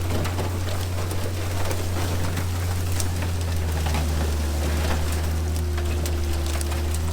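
A motor running steadily with a deep hum, under scattered crackling and ticking.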